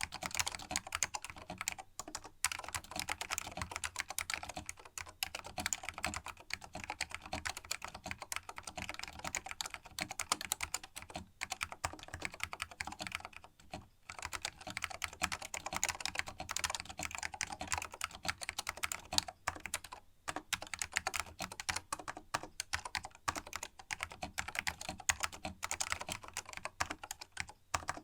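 Continuous fast typing on a vintage Canon A200-AKB keyboard with linear green Alps switches, their springs lubed to stop them pinging. There are a few brief pauses, the longest about halfway through.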